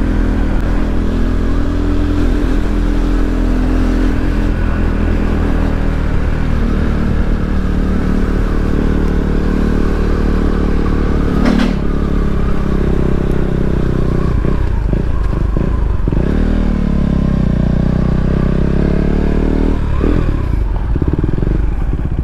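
KTM Duke 390 single-cylinder motorcycle engine running under way, with the revs dipping and climbing again several times in the second half as the rider works through bends. There is one sharp click about eleven seconds in.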